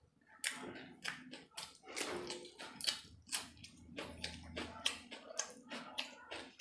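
A person biting and chewing tandoori chicken: a row of short, irregular eating noises, two or three a second.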